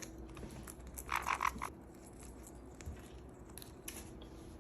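Lovebird giving a short, rapid rasping chatter about a second in, among faint scattered clicks.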